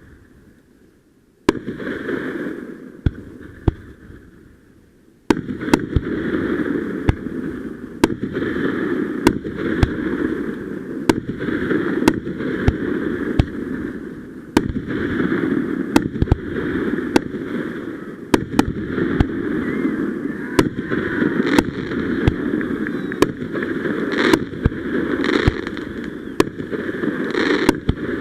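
Fireworks going off: a rapid string of dozens of sharp bangs, over a continuous noise that starts about a second and a half in, fades briefly, and runs steadily again from about five seconds in.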